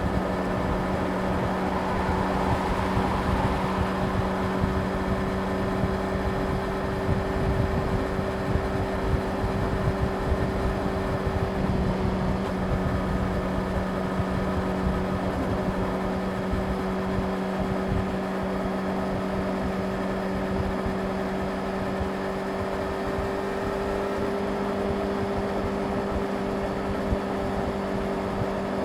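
Yamaha YZF-R6's inline-four engine running at a steady, unchanging speed while cruising, with a constant rush of wind noise underneath.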